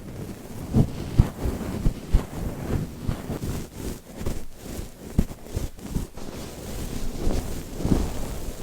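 A dog sniffing and snuffling right against the microphone: irregular puffs of breath and soft low bumps, several a second.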